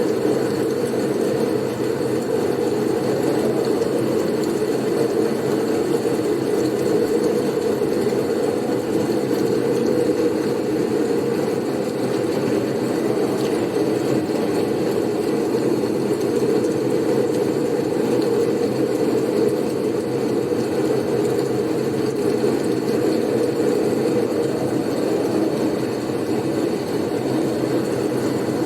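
Blizzard wind noise: a steady, unchanging rushing sound, heaviest in the low range, with a faint thin high tone above it.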